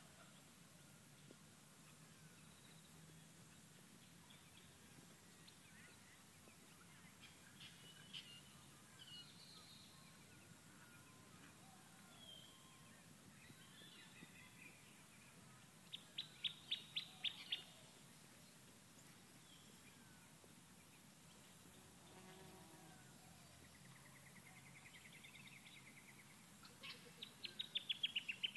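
Wild birds calling over a very quiet background: scattered high chirps, a quick run of about seven sharp notes around the middle, and a rapid falling series of notes near the end.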